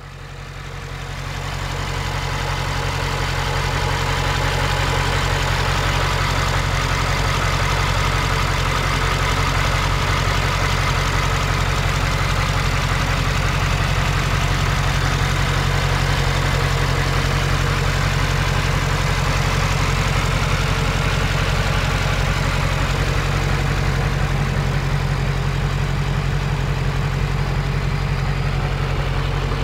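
Mercedes-Benz G63 AMG's 4-litre twin-turbocharged V8 idling steadily, fading in over the first couple of seconds.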